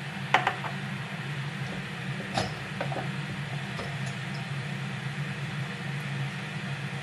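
A steady low mechanical hum with a hiss over it, broken by two sharp clicks, one just after the start and one about two and a half seconds in, and a few fainter ticks.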